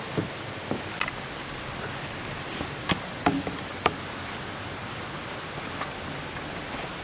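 Steady rush of a shallow valley stream flowing over rocks, with a few light clicks and knocks scattered through it, the sharpest about three to four seconds in.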